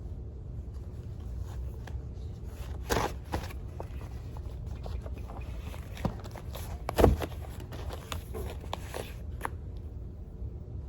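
Small handling noises from someone studying at a desk: scattered taps and rustles, with a louder knock about seven seconds in, over a low steady hum.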